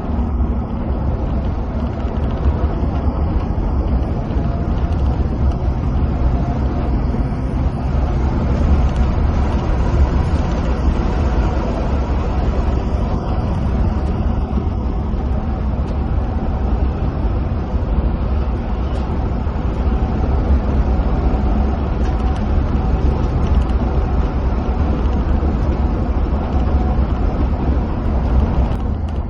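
Coach bus cruising on a highway, heard from inside the cabin: a steady deep engine drone under a continuous rush of tyre and road noise.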